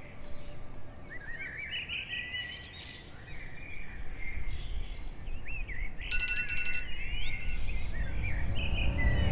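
Songbirds chirping and singing, many short rising and falling calls overlapping. A low rumble builds under them through the second half.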